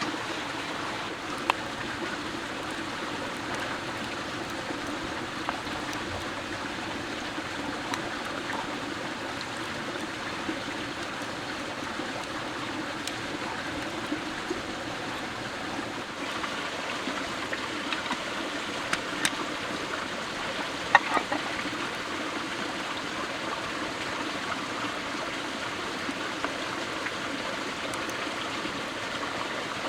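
Steady rushing of running water, with a few sharp clicks over it, the loudest a short cluster about two-thirds of the way through.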